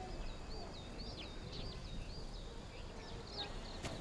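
Small birds chirping: a stream of quick, high twittering calls over a faint, steady background hiss.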